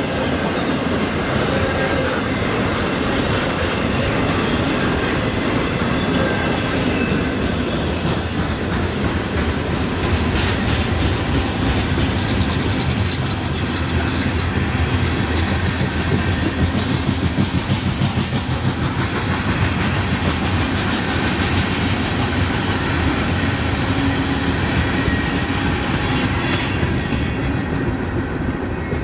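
Freight train rolling past at speed: a steady rumble of steel wheels on rail with rhythmic clacking over the rail joints as intermodal container cars and then coal hopper cars go by. It grows a little quieter near the end.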